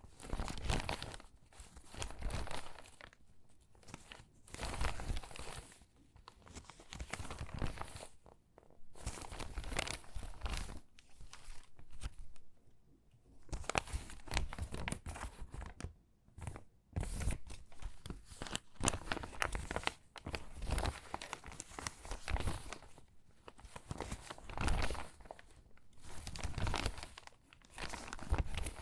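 Crinkly, water-damaged magazine pages being handled and sorted by hand: stiff paper crackling and rustling in irregular bursts as sheets are picked up, shuffled and laid down, with short pauses between.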